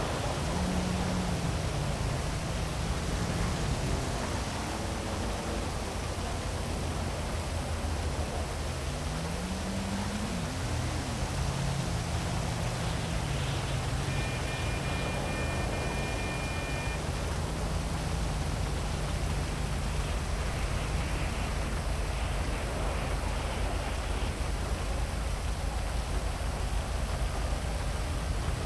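Heavy rain falling steadily over city traffic, with the low hum of vehicle engines rising and falling in pitch as they pass. A steady high tone sounds for about three seconds midway.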